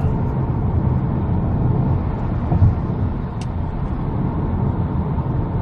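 A Kia Sportage driving along with a freshly fitted aftermarket Jinturbo exhaust part, giving a steady low rumble of engine, exhaust and road noise.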